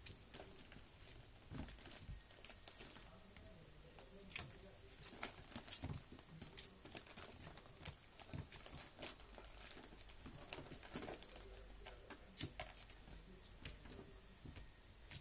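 Kitten at play, its paws scrabbling and tapping: faint, irregular scratchy rustles and small taps.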